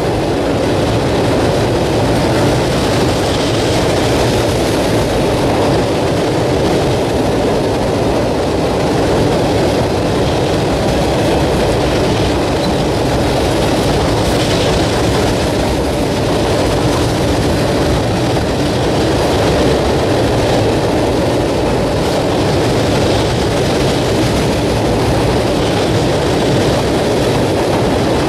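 CSX coal hopper cars rolling across a steel girder bridge: a steady rumble and rattle of wheels on rail that keeps the same level throughout.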